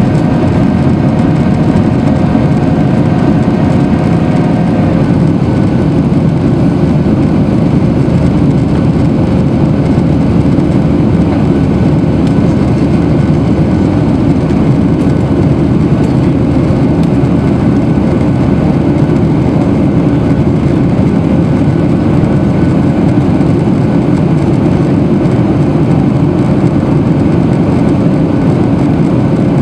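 Boeing 737-800's CFM56-7B jet engines running at high power for takeoff: a steady, loud, deep rumble, with a few faint steady tones above it that fade out about five seconds in.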